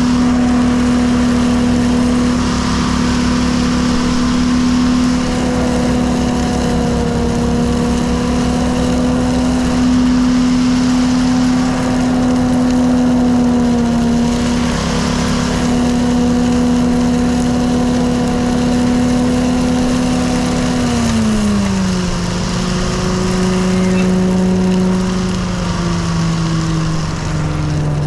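An engine running steadily at high speed, its note dropping as it is throttled down about 21 seconds in and dropping lower again near the end.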